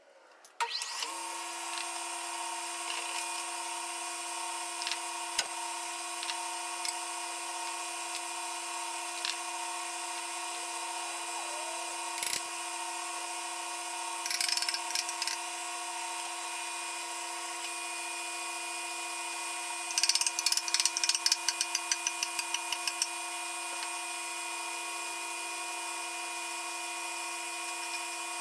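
Metal lathe running with a steady whine while machining a flywheel, starting about a second in. Bursts of rapid clicking come around halfway and again about two-thirds of the way through.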